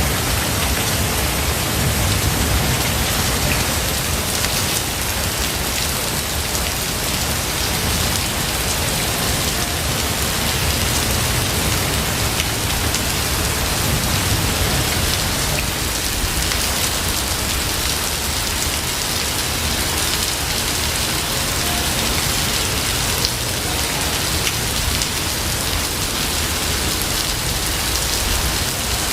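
Steady rain falling, with individual drops ticking through an even hiss over a constant low rumble.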